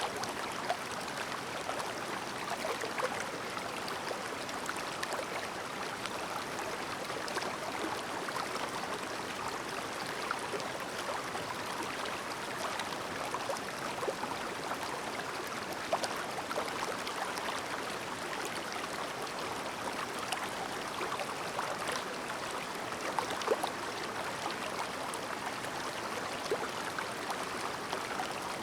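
A clear, shallow mountain stream babbling over rocks: a steady rush of running water with many small splashes and gurgles throughout.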